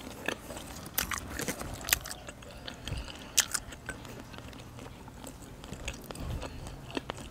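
Close-miked chewing of grilled roe-filled squid: irregular wet mouth clicks and smacks, a few of them sharper.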